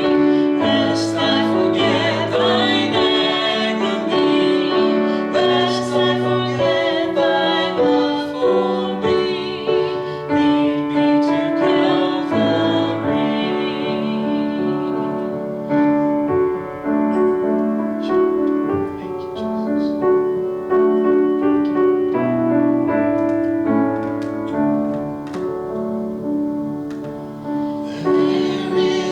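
Hymn music: piano playing held chords and melody notes, with a singing voice over it.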